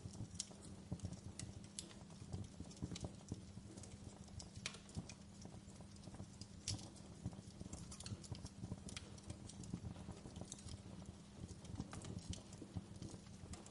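Wood fire crackling, with irregular sharp pops and snaps of varying strength over a low steady rumble.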